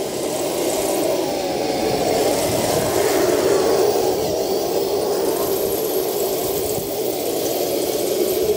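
RC model Leopard tank running: a steady motor-and-gearbox whir that swells over the first couple of seconds, with faint rising and falling pitch as the drive speed changes.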